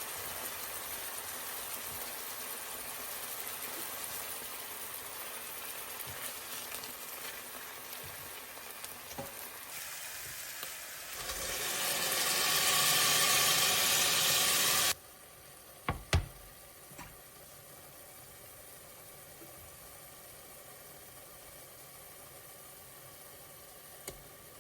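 Food sizzling as it fries in a pan. Partway through a much louder hiss swells up, holds for a few seconds and cuts off suddenly. Two sharp clicks follow, then the quieter sizzle continues.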